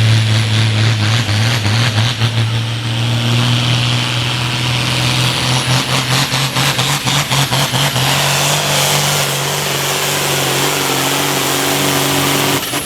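Modified farm pulling tractor's engine running flat out as it pulls the sled down the track. The steady engine note climbs slightly, with a rapid pulsing through the middle stretch and a high whine. Near the end the engine note cuts off suddenly as the pull ends.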